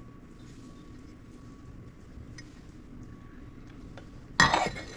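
Faint workshop room tone with a few small clicks, then one short, loud clatter near the end as tools are handled on the bench.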